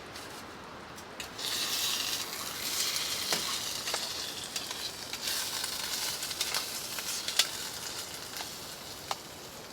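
Saucy hamburger meat sizzling in a hot pan on the tent stove as it is stirred, a steady hissing sizzle that starts about a second in, with light clicks and scrapes of the utensil against the pan.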